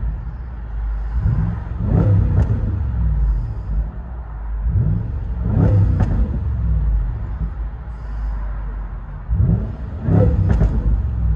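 2011 Range Rover Sport's supercharged 5.0 L V8, with muffler-deleted true-dual exhaust, free-revved three times in park to about 4,000 rpm, heard inside the cabin. The engine note rises and falls each time, with a sharp pop near the top of each rev.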